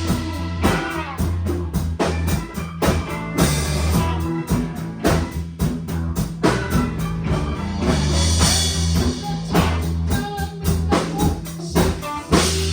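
A rock band playing a bluesy instrumental passage: drum kit keeping a steady beat under a sustained bass line and guitar.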